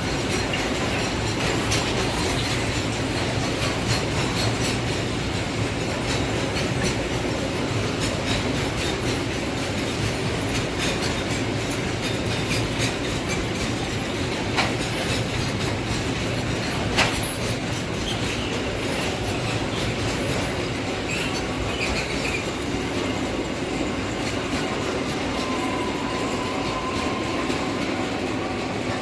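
Container freight train rolling steadily past: the wagons' wheels clack over rail joints, with a faint wheel squeal now and then.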